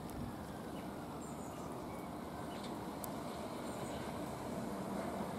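Class 387 Electrostar electric train approaching: a steady low rumble that grows slowly louder, with faint bird chirps twice.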